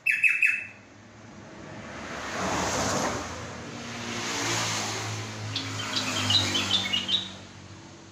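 Yellow-vented bulbul singing: a loud, bubbly burst of notes at the start, then a quick chattering phrase about six seconds in. Between them a rush of background noise swells and fades.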